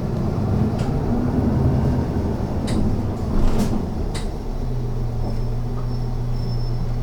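Interior of a city bus on the move: engine and road rumble with a few sharp clicks or rattles in the first half. About two-thirds of the way through, the engine settles into a steady low hum.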